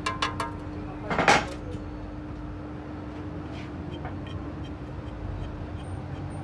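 A few light knocks and one louder clank about a second in, over a steady low workshop hum with a constant drone.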